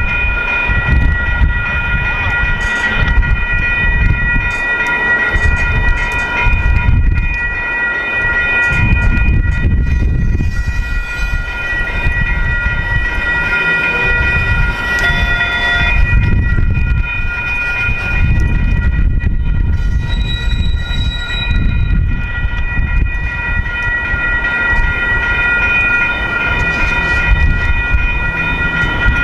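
Freight train cars rolling through a grade crossing, their wheels rumbling steadily on the rails, while the crossing warning bells ring without a break.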